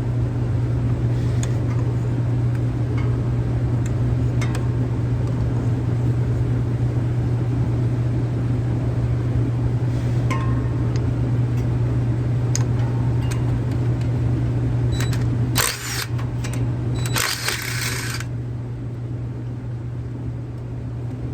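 A steady low mechanical hum, with scattered light clicks and taps. About three-quarters of the way through come two short, loud, hissing bursts, the second lasting about a second.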